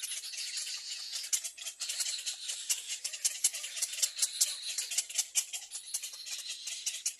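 Baby birds in a nest making a rapid, dry, rasping rattle of clicks and hiss, high-pitched and continuous.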